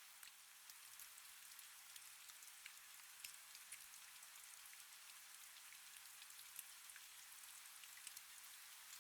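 Faint, steady rain: a soft hiss with many small drops ticking irregularly on a surface.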